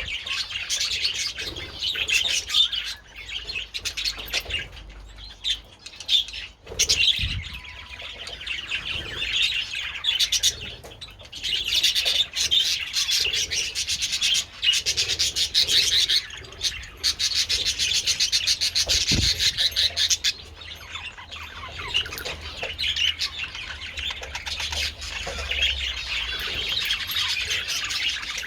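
A colony of budgerigars chirping and warbling continuously, many birds calling at once.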